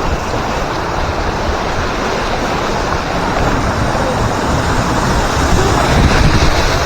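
Rushing, splashing water around a raft on a river rapids ride, with wind noise on the microphone, the noise swelling slightly near the end.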